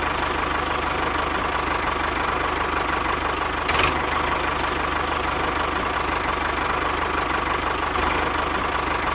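A miniature tractor's small engine running steadily at a fast, even beat, with one short knock about four seconds in.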